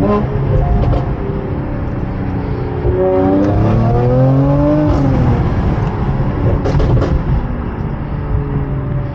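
2022 Mercedes-AMG E53's 3.0-litre inline-six with a Red Star exhaust and catless downpipes, driving with a low drone. About three seconds in the engine note climbs under acceleration, then drops near five seconds, and a few sharp cracks follow around seven seconds.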